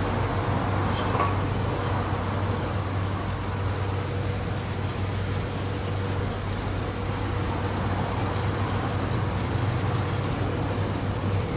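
Daifuku Fabrica automatic gantry car wash running: a steady low mechanical hum under an even hiss of washing.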